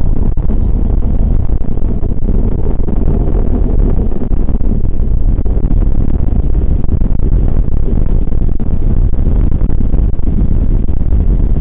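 Minotaur V rocket's solid-fuel first stage burning during ascent: a loud, steady, deep rumble.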